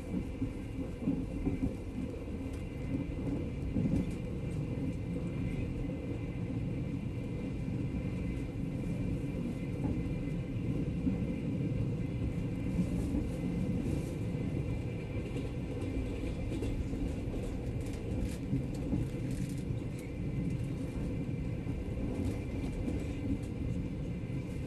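Steady rumble of a moving passenger train heard from inside the carriage, the wheels running on the rails. A faint steady high whine and a few faint ticks sit over it.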